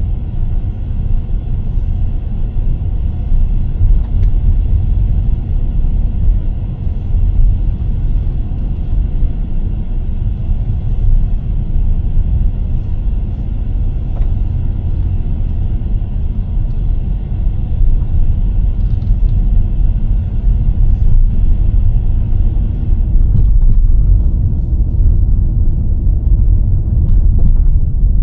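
Steady low rumble of a car being driven, engine and tyre noise. A fainter higher hiss drops away a few seconds before the end.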